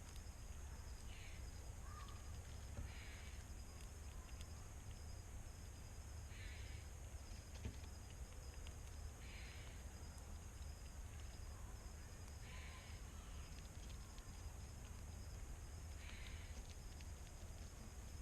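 Evening backyard ambience: a steady high-pitched insect drone over a low background rumble. A short raspy call repeats about every three seconds.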